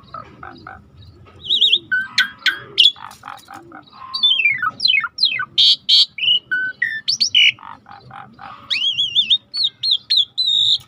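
Songbird song: quiet, evenly repeated short notes at first, then a loud, varied stream of chirps, trills, downward-sliding whistles and warbling phrases.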